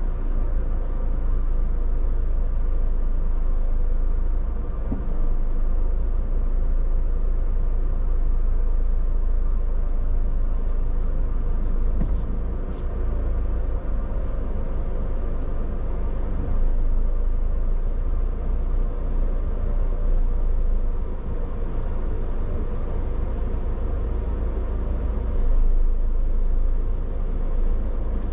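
Steady low rumble of a car, with a few faint steady tones above it and no sudden events.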